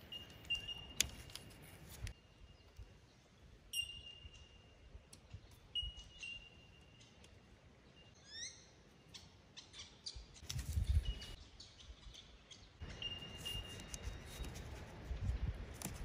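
Birds calling: short whistled notes repeated at one steady pitch, with a quick run of rising chirps about eight seconds in. Faint clicks are scattered through, and a low rumble comes in twice in the second half.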